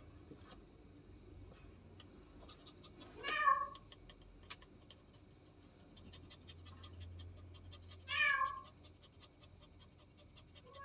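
Domestic cat, a pregnant queen close to giving birth, meowing twice: two short meows about five seconds apart.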